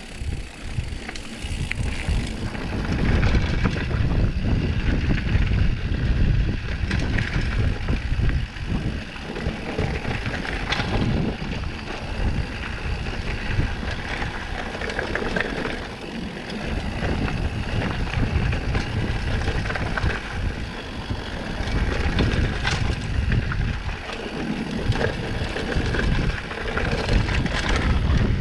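Mountain bike riding downhill on a dirt trail: wind buffets the microphone in a steady rumble, and the bike clatters over bumps in scattered knocks.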